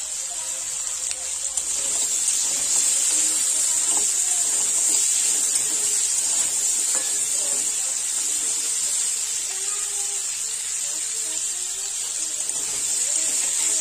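Crab pieces sizzling as they fry in hot mustard oil in a wok, with a steady hiss, while a metal spatula stirs them.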